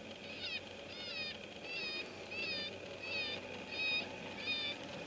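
FoxPro electronic predator caller playing a distress call on a loop: short, high, wavering cries, evenly spaced about every two-thirds of a second.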